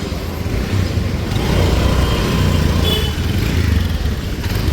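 City street traffic: motor vehicle engines running close by, with a low rumble that grows louder about a second and a half in.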